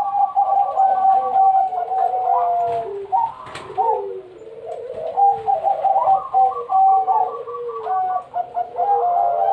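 Several zebra doves (perkutut) cooing at once, their runs of short notes and gliding phrases overlapping. One sharp click about three and a half seconds in.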